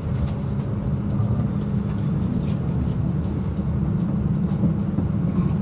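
Steady low rumble of a moving passenger train heard from inside the carriage, its wheels running along the rails, with a few faint clicks.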